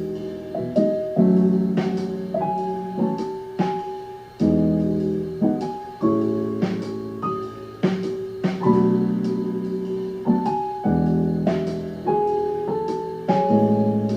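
Piano music: chords and melody notes struck about every half second, each ringing and fading.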